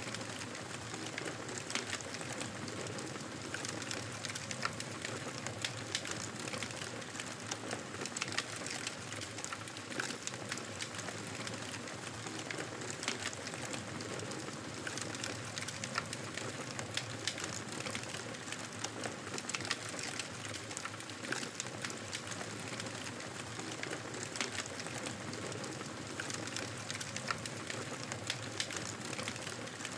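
Campfire burning: a steady hiss of flames with frequent small, irregular crackles and pops from the burning wood.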